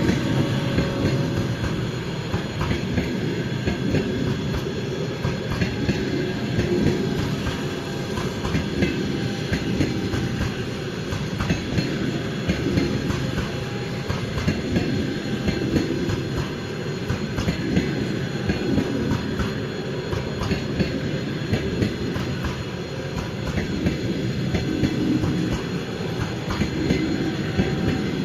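Passenger train rolling past: a steady rumble of steel wheels on rail, with frequent clicks and knocks as the wheels pass over rail joints.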